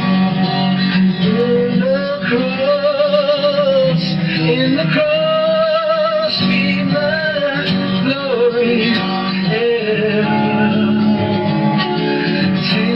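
A solo voice singing a slow hymn melody with vibrato over steady instrumental accompaniment.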